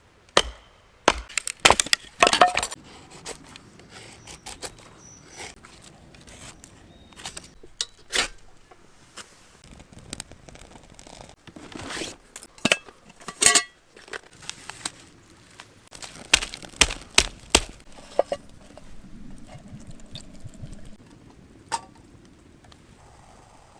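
Camp cooking handling sounds: a string of sharp knocks, cracks and clinks of wood and cookware being handled. They come in clusters near the start, around the middle and about two-thirds of the way in, with quieter stretches between.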